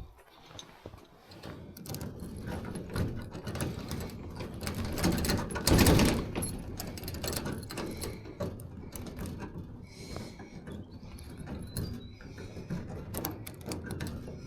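Key being worked and jiggled in a seized padlock: a run of small metallic clicks and rattles, with one louder knock about six seconds in. The lock stays jammed.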